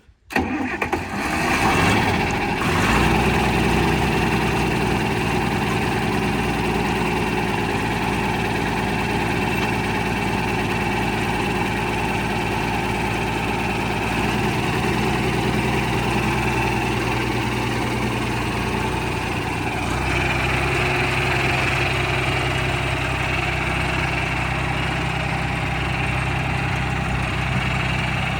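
John Deere 4020 tractor's six-cylinder engine starting and then running steadily at idle. The engine note changes slightly about twenty seconds in.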